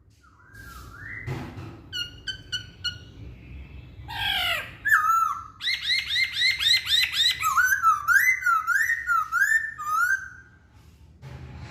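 Black-throated laughingthrush (Hong Kong poksay) singing a varied run of loud, clear whistled phrases: a few short notes, a falling sweep, then a fast series of repeated rising notes, about six a second, that gives way to rising-and-falling whistles before the song stops near the end.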